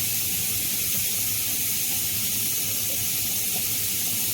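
Steady, even hiss with a faint low hum underneath, unchanging throughout and with no distinct events.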